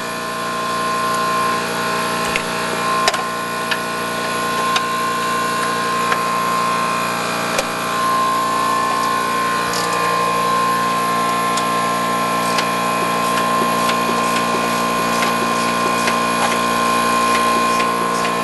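A machine running steadily, giving a constant high-pitched whine over a lower hum, with light clicks here and there; a deeper hum joins about ten seconds in.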